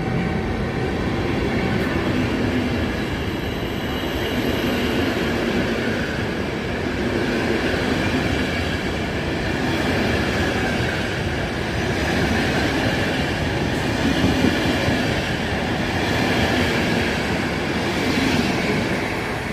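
Passenger train departing behind an EU44 electric locomotive, its coaches rolling steadily past on the rails.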